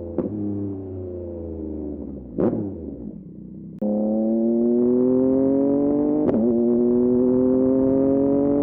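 Yamaha MT-09 SP's three-cylinder engine through a Dominator exhaust. The revs fall away for a couple of seconds, with a short sharp burst about two and a half seconds in. Near four seconds the throttle opens hard and the engine pulls loudly with steadily rising revs, broken briefly by an upshift about two seconds later.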